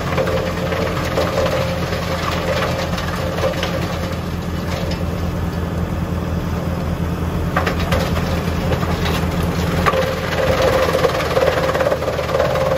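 Tractor engine running steadily under load, driving a Junkkari HJ500 wood chipper, with a few short sharp knocks from the machinery.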